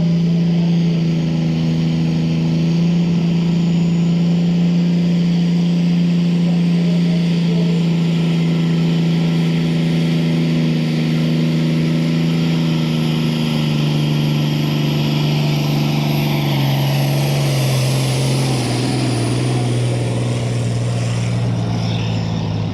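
Pulling tractor's engine running flat out under load as a steady, loud drone. Its pitch falls over the last several seconds.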